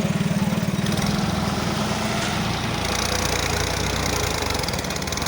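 Tractor diesel engine running close by with a steady, rapid exhaust beat; its note drops lower about two and a half seconds in.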